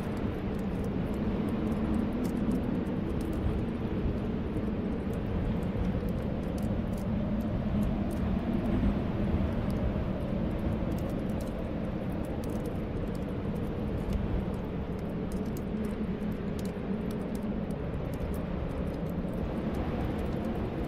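Steady snowstorm wind whistling in low, slowly wavering tones, with faint crackling from a fireplace fire throughout.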